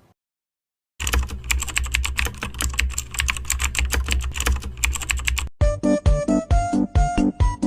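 Rapid, continuous computer-keyboard typing with a low hum underneath, starting about a second in. It gives way to electronic music with a steady beat about five and a half seconds in.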